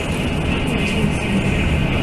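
Steady running noise inside a Fu-Hsing express passenger coach at speed: a low rumble of wheels on rail, with a steady high hum above it.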